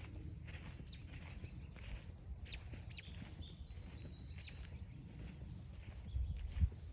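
Footsteps crunching steadily along a forest trail, about two to three steps a second. Wild birds call over them: a few quick falling chirps, then a rapid high trill about three seconds in.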